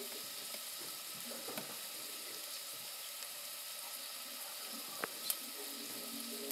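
Chopped onion, garlic, jalapeno and ginger sizzling steadily in oil in a saucepan on a gas burner, the aromatics being sautéed. Two sharp clicks about five seconds in.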